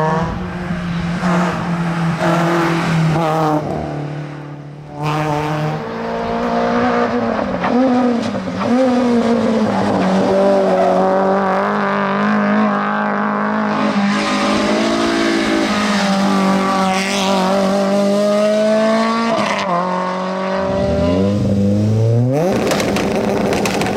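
Rally car engines revving hard, the pitch climbing and dropping again and again with gear changes and lifts, with some tyre squeal. The sound dips briefly about four seconds in, and a steep rev climb comes near the end.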